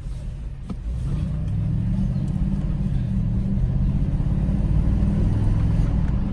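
Ford F-250 Super Duty pickup's engine heard from inside the cab, picking up about a second in as the truck pulls away, then running steadily.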